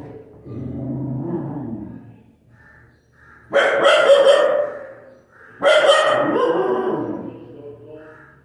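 Puppy barking: a lower, quieter stretch in the first two seconds, then two loud bouts of barking, starting about three and a half and five and a half seconds in.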